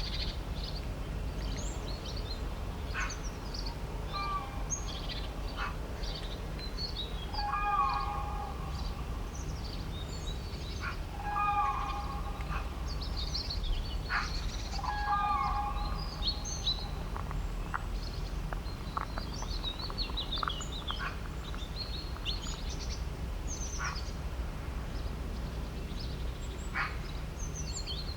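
Wild birds chirping and calling, with quick high chirps throughout and three louder, lower calls of about a second each near the middle, over a steady low background rumble.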